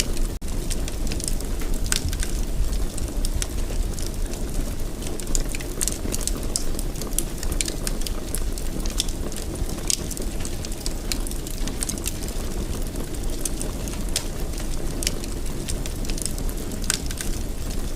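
Wood fire in a fireplace crackling, with frequent irregular pops and snaps over a steady low rumble of the flames. There is a brief drop-out about half a second in.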